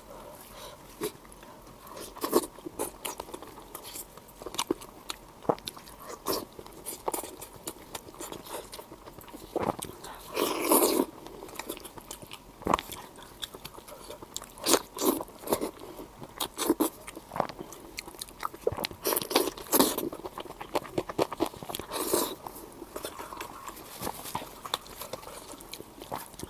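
Close-miked eating: irregular crunchy bites and chewing, with louder runs of crunching about ten seconds in and again around twenty seconds.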